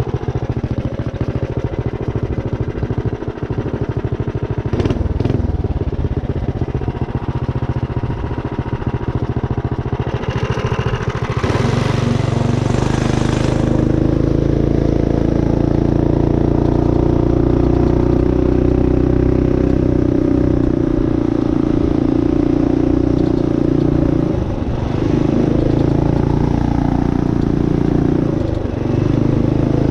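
Minibike with a built Tillotson 212 single-cylinder four-stroke engine running under way. The engine note rises into a steady cruise about twelve seconds in, with a short rush of wind noise around then, and the throttle eases off briefly twice near the end.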